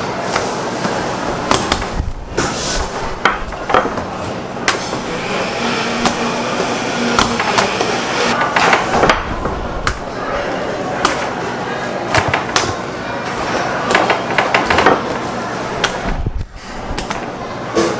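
Bread dough being pounded by hand: repeated knocks and thuds at an uneven pace, over a steady low hum.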